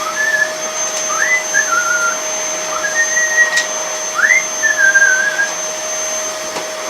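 Vacuum cleaner running steadily, its motor giving a constant high whine over a rushing hiss. Short, wavering whistled chirps come and go over it.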